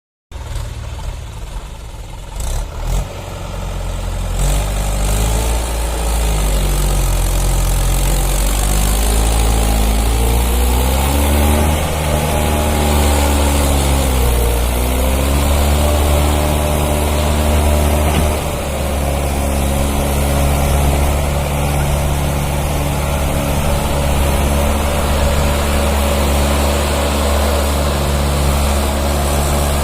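Tractor diesel engine running under load while pulling a loaded trolley. Its pitch rises over the first few seconds, dips briefly about halfway through, then holds steady.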